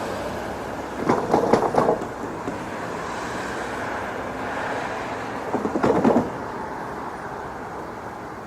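Amtrak passenger train passing: a steady rumble with two bursts of wheel clatter, one about a second in and another about six seconds in.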